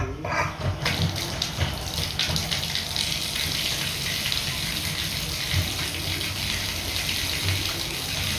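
Hot water faucet running open, a steady rush of water starting about a second in with many small irregular crackles, as air is bled from the lines while the new water heater fills.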